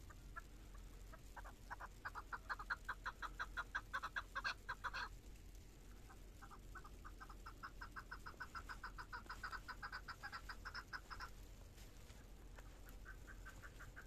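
A bird calling in long runs of rapid, evenly repeated clucking notes, about seven a second, in three bouts.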